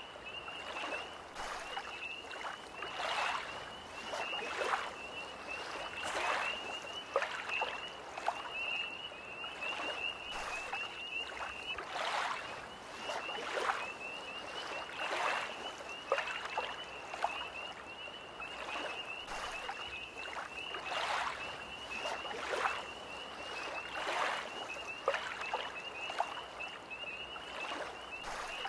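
Small lake waves lapping at the shore, an irregular splash every second or two, under a steady high-pitched pulsing trill of tree frogs.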